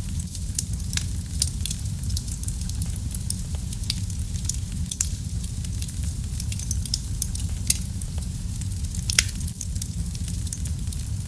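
Wood fire burning in a fireplace: a steady low rumble of flames with constant irregular crackling and a few sharper pops, the loudest two near the end.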